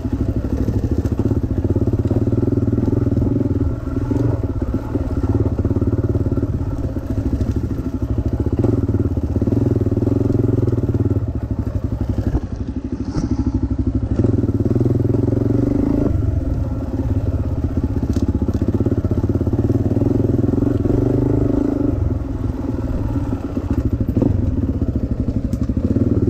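Dirt bike engine running under load on a trail ride, the throttle opened and eased off in turn so the engine note swells and drops every few seconds.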